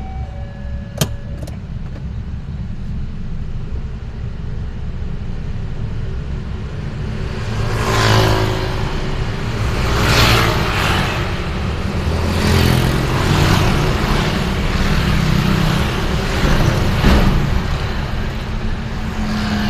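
Road vehicle driving through city traffic: a steady low engine and road rumble, with two sharp clicks about a second in and, from about halfway on, repeated louder rushes of noise.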